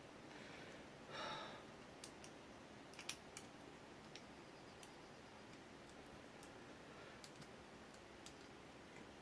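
Faint, scattered clicks of a lock pick and tension wrench working the pins inside an ABUS 83AL/45 padlock cylinder, a few small clicks every second or two.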